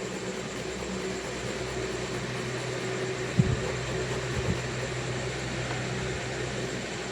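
Steady white-noise hiss with a faint low hum underneath, broken by two brief low thumps about three and a half and four and a half seconds in.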